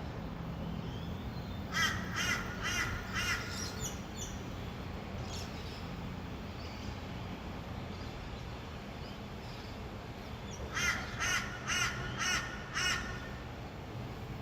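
A bird gives two quick series of calls, about five or six each: one about two seconds in and another near eleven seconds. Under them runs a steady low rumble of distant city traffic.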